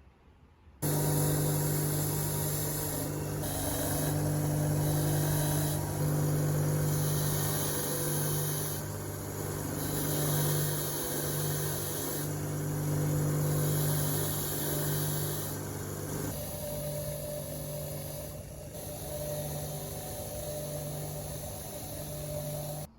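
A workshop power tool running steadily: a low hum with a strong hiss above it that swells and eases every few seconds. It starts abruptly about a second in and cuts off just before the end.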